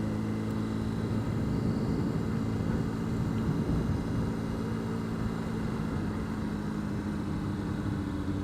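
Honda CBR600RR's inline-four engine running at a low, steady engine speed.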